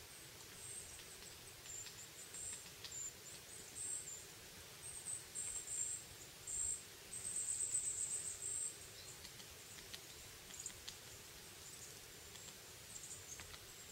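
Faint, very high, thin songbird calls: short chirps and trills repeated at intervals, with one longer trill about seven seconds in.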